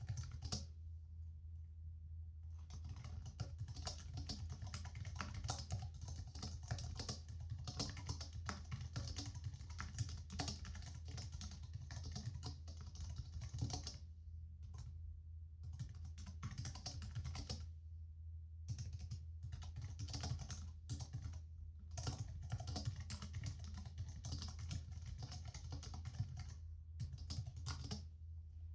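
Typing on a computer keyboard: quick runs of key clicks that stop for a second or two several times, over a steady low hum.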